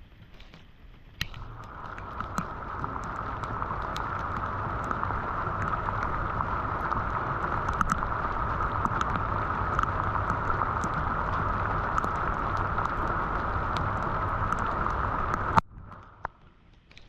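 Rushing water, building over the first couple of seconds and then holding steady before cutting off suddenly near the end.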